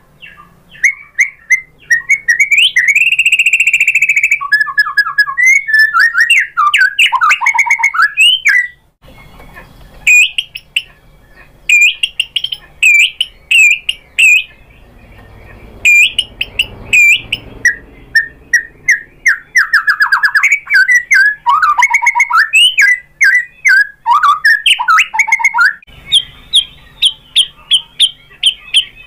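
White-rumped shama (murai batu) singing a long, varied song of loud whistles, fast trills and rapidly repeated notes. It is an excited bird pouring out its repertoire of learned, mimicked phrases.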